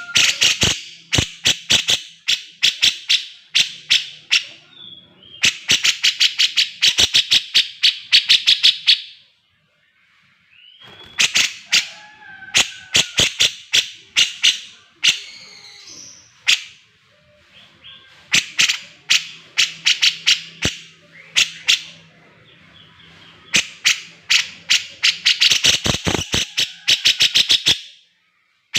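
Cucak jenggot (grey-cheeked bulbul) singing in full voice: runs of rapid, sharp chattering notes, about five a second, each run lasting a few seconds, with short breaks between them.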